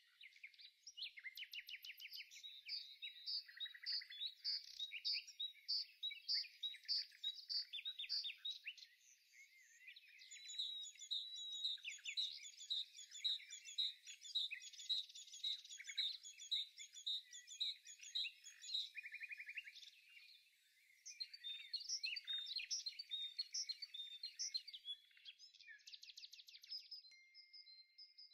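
Songbirds chirping and singing in quick runs of repeated high notes and trills, with short lulls about ten and twenty seconds in.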